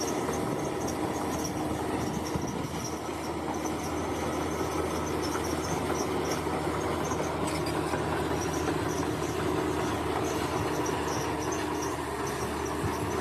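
Bulldozer diesel engine running steadily under work, with insects chirping in short high pulses over it.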